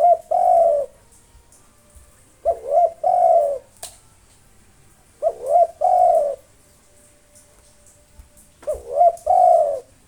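Spotted dove (tekukur) cooing: a phrase of a couple of short notes followed by a longer coo, repeated about every three seconds, four times.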